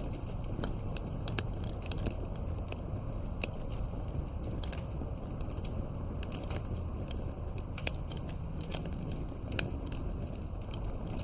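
Campfire burning, wood crackling with frequent sharp, irregular pops over a steady low rush of flame.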